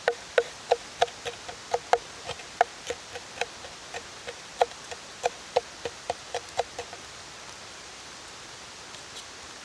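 Steady hiss of rain, with a run of sharp, irregular taps, roughly three a second, that stop about seven seconds in.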